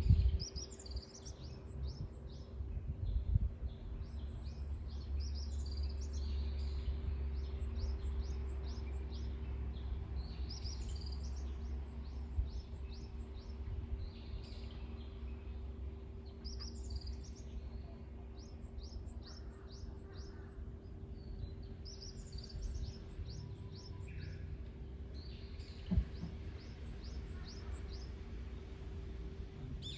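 Wild birds singing: rapid series of short, high chirps and trills, repeated throughout. Beneath them runs a steady low rumble and a faint steady hum.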